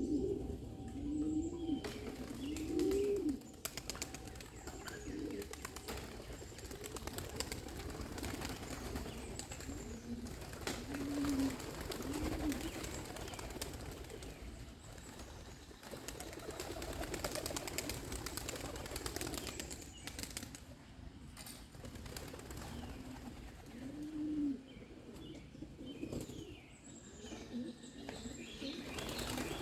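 Young pigeons cooing in short arching calls, several in the first few seconds, a few more about ten seconds in and again near the end, with some wing flapping.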